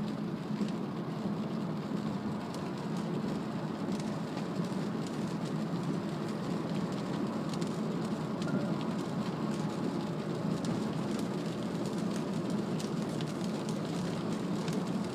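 Steady tyre and road noise inside a Mazda CX-3's cabin at expressway speed on a wet road in heavy rain, with scattered ticks of raindrops hitting the car.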